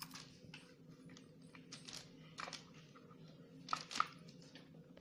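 Utility knife cutting through the rim of a plastic container: irregular clicks and crackles of the plastic giving way, with two sharper snaps near four seconds in, over a faint steady low hum.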